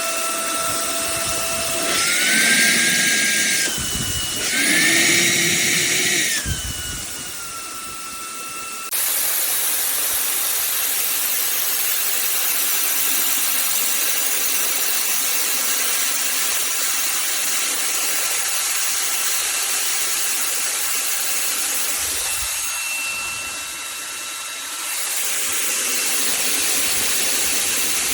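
Cordless handheld vacuum cleaner running with a high motor whine over rushing air. The whine steps higher twice between about 2 and 6 seconds in, then settles back into a steady run.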